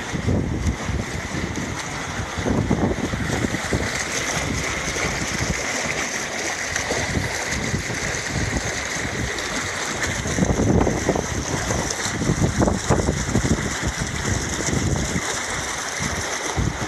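Blizzard wind buffeting the microphone in gusts over a steady hiss of blowing wind.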